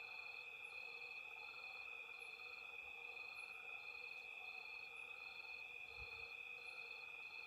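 Night chorus of frogs and insects: steady high-pitched trilling layered with a pulsed call repeating a little under twice a second, over a fainter, lower continuous chorus.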